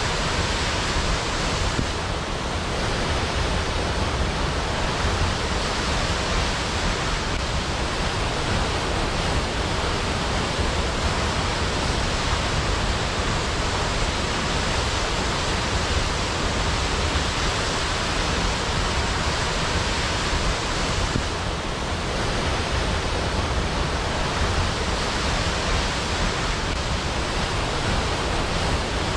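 Waterfall: a steady, even rush of falling water that hardly changes.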